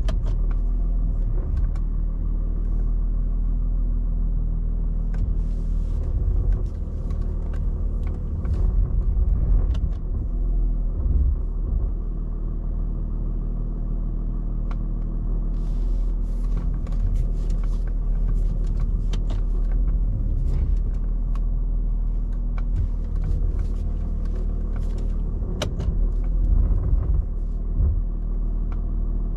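The 2008 Mercedes-Benz S320 CDI's 3.0 V6 diesel runs at a low, steady rumble, heard from inside the cabin as the car creeps at parking speed. Scattered light clicks and ticks come and go over it.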